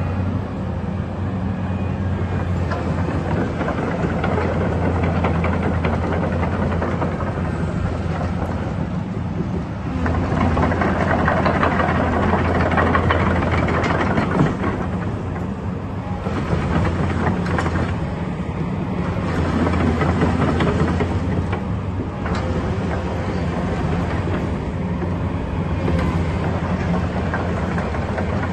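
Komatsu PC210LC tracked excavator's six-cylinder diesel engine running steadily, with two louder stretches of working clatter in the middle.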